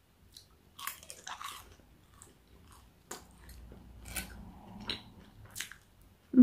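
A person biting and chewing a mouthful of Yorkshire pudding, with soft, irregular crunching and crackling as it is chewed.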